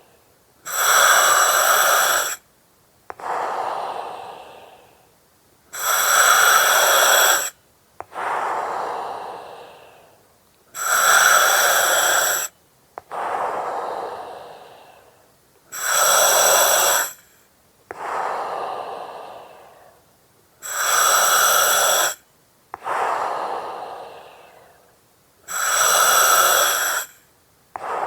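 Breathing through an oxygen mask in slow, even cycles about every five seconds: a loud hiss with thin whistling tones from the mask's regulator, starting and stopping abruptly, alternating with a softer breath that fades out. Six cycles in all.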